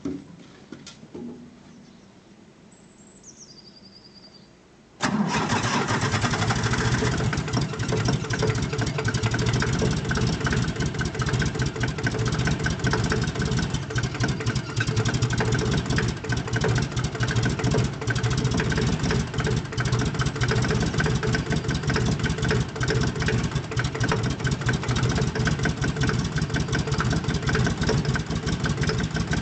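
Fendt Farmer 2 tractor's diesel engine cold-starting at −15 °C: after a few quiet seconds with a few small clicks, it fires suddenly about five seconds in and keeps running with a fast, even beat.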